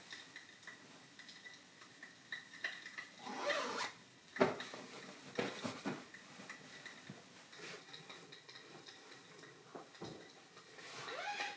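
Light household handling sounds in a small room: scattered clicks and taps of objects being set down, a sharp knock about four and a half seconds in, and two brief rising swishes, one before the knock and one near the end.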